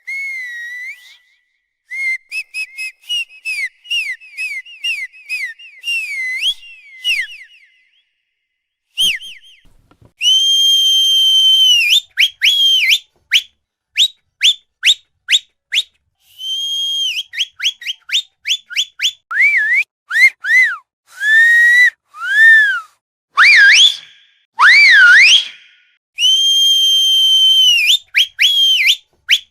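A run of whistles: rapid repeated short chirps and trills, several long held whistle notes, and a few wide swooping glides up and down past the middle, with a short break about eight seconds in.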